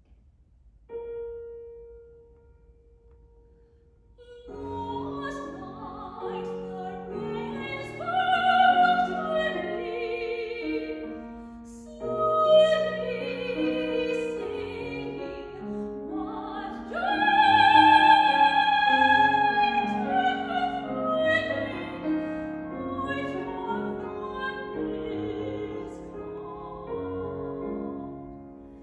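Classical art song: a single held note about a second in, then piano accompaniment entering at about four seconds with an operatic high voice singing over it with wide vibrato, swelling to its loudest phrase a little past halfway.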